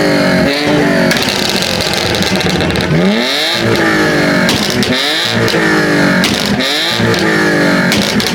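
A car engine revving hard again and again, its pitch sweeping up and dropping back every one and a half to two seconds. It is loud enough to hurt the ear.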